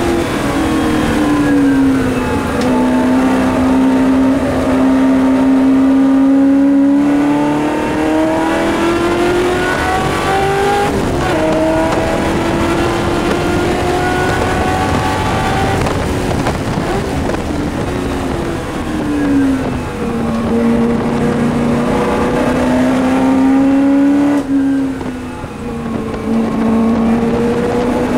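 Race car engine heard from inside the cabin under hard acceleration, its pitch climbing through the gears with sudden drops at upshifts about a quarter of the way in and near the end. Midway the revs fall away as the car slows for a corner, then climb again.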